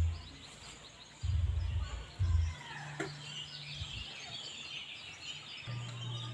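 Birds chirping, with two heavy low thumps about a second and two seconds in, and a steady low hum later.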